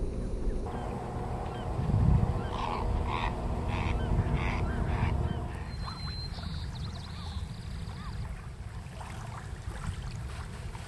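Bird calling, a run of short, evenly spaced calls a little over half a second apart from about two and a half to five and a half seconds in, over a steady low rumble.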